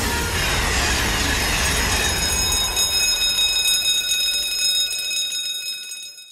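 Train passing a level crossing: a loud rushing noise that thins out, with a steady high ringing tone coming in partway through, before it all fades out at the end.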